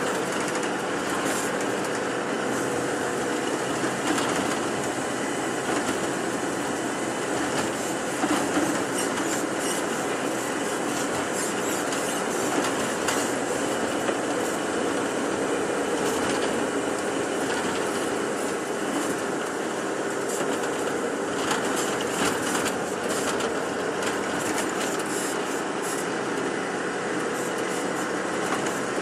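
Steady inside-the-cabin noise of a moving tour bus: engine and road noise with frequent light rattles and knocks.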